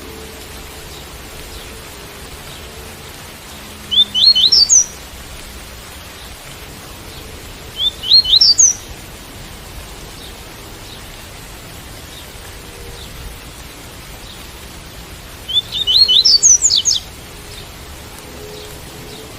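Double-collared seedeater (coleiro) singing the 'tui-tui' song type: three short phrases of quick rising whistled notes, about 4, 8 and 16 seconds in, the last one longer. A steady hiss of rain runs underneath.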